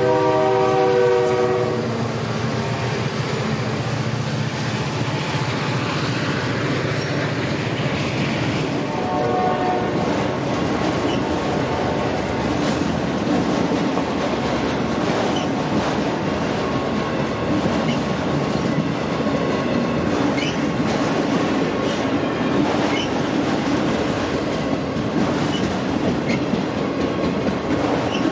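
Horn of a pair of EMD SD40-2 diesel locomotives sounding as they pass, fading out about a second and a half in. A long string of autorack cars then rolls by, wheels clicking over the rail joints.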